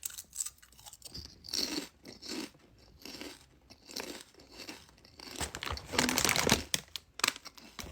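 Chewing crisp chips close to the microphone: irregular crunching bites, loudest about six seconds in.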